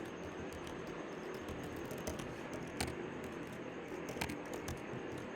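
Sparse computer keyboard keystrokes, single sharp clicks every half second or so, over a steady background hiss.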